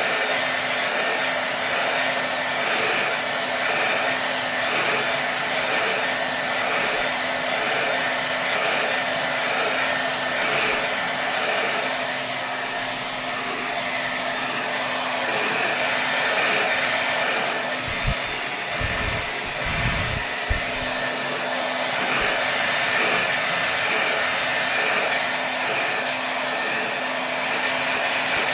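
Hair dryer blowing steadily at full power, an even rush of air with a constant motor hum. A few brief low bumps come about two-thirds of the way through.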